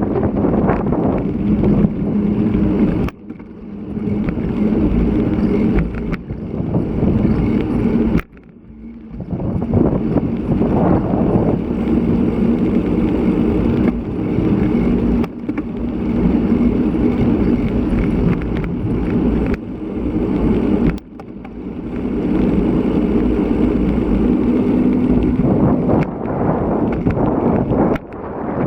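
Strong wind buffeting the microphone of a bike-mounted action camera while riding, over a steady rumble and hum of tyres on the road, with a few brief lulls.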